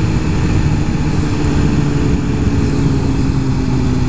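Suzuki GSX-R 1000 superbike's inline-four engine running steadily at a constant pitch while riding, with rushing road and wind noise over it.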